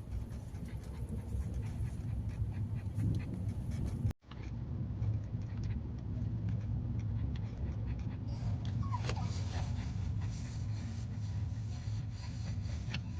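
Dog panting in a moving car's cabin over the low road rumble, with a brief whine about nine seconds in. The sound drops out for a moment about four seconds in.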